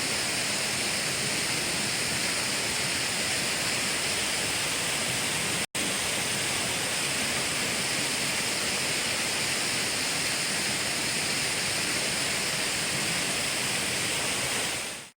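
Waterfall: a steady, loud rush of falling water. It cuts out for an instant about six seconds in, then fades out near the end.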